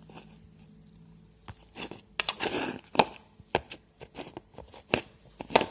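Mashed boiled potato being stirred with salt in a bowl: irregular knocks and clicks with a short scrape partway through.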